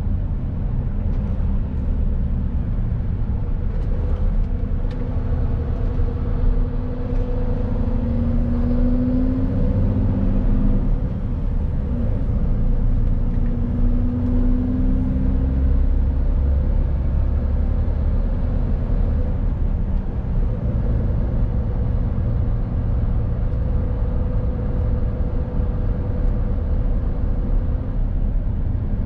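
Mercedes-Benz Actros truck's diesel engine running on the move, a steady low rumble with road noise. The engine note rises and falls twice as the truck changes speed.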